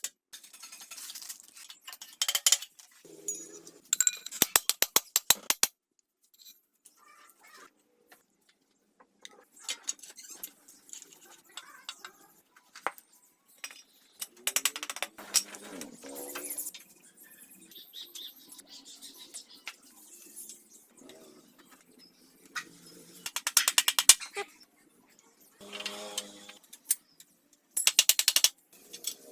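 Metal hand tools and parts being handled in a workshop: scattered knocks and short squeaks, with three runs of rapid, evenly spaced clicks.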